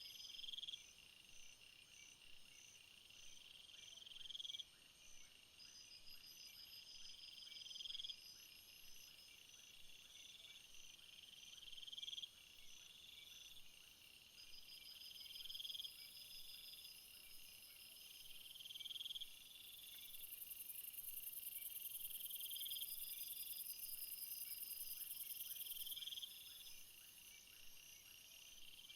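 Jungle insect chorus: steady cricket-like trills, with a louder call that swells and then cuts off sharply about every three and a half seconds. A high shrill chorus grows louder for several seconds past the middle.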